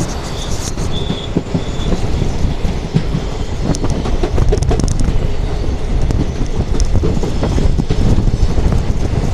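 Passenger train running on the track, heard from aboard: a steady rumble with the clickety-clack of wheels over rail joints, and a few short high squeals in the first couple of seconds.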